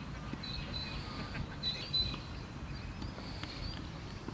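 Birds chirping in short, high calls scattered through a steady low outdoor rumble.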